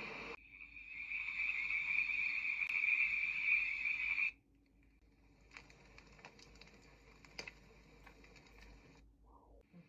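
Recorded nature sound from a baby white-noise machine: a steady, high-pitched chirring chorus that cuts off about four seconds in, followed by a much quieter track with scattered clicks.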